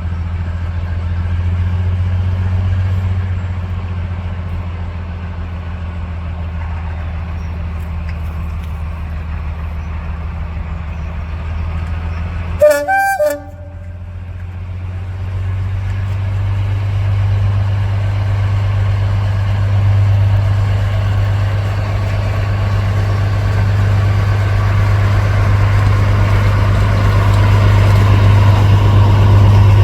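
Diesel locomotive engine running with a steady low drone, a short horn blast about halfway through, then the engine growing louder toward the end.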